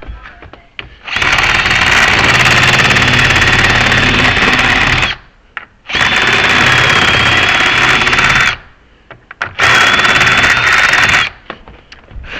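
Handheld power tool run three times, about four, two and a half and one and a half seconds long, with a steady high whine, cleaning up the wooden door jamb at the strike.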